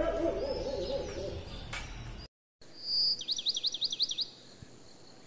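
A bird gives a short whistle, then a rapid run of sweeping chirps, about eight a second, lasting around a second, after the sound drops out briefly about two seconds in. Right at the start there is a brief low wavering sound.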